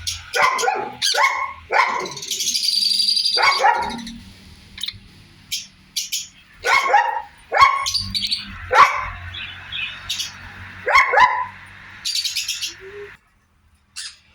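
Sun conures giving a string of short, harsh squawks, about a dozen, with a longer high-pitched call about two seconds in. The calls stop near the end.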